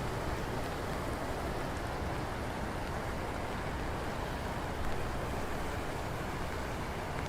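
Steady rain falling, with faint scattered drop ticks over a low, even rumble.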